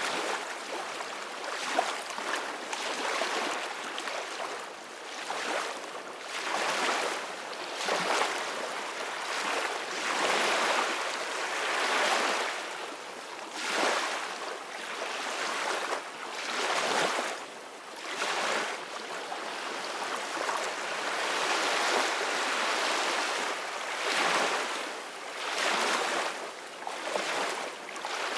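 Ocean waves washing in and out, the surf noise swelling and fading every couple of seconds, with a brief sharp tick about two seconds in.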